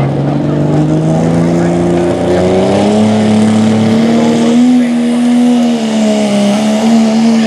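Turbocharged diesel pickup engine of a limited pro diesel pulling truck at full throttle pulling a sled. Its pitch climbs over the first few seconds, then holds high, with a brief dip and recovery near the end.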